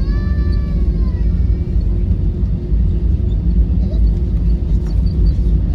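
Airbus A321 jet noise: a loud, steady low rumble. In the first second a brief high-pitched tone glides downward over it.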